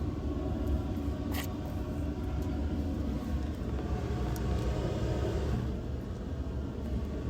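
Low, steady rumble of a motorboat underway, its engine and the rush of travel mixed together.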